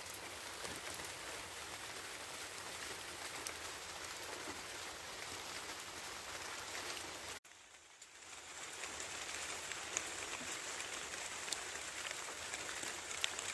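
Steady rain falling, a dense even patter with a few separate drop ticks standing out. The sound cuts out abruptly about seven seconds in and fades back up within a second or so.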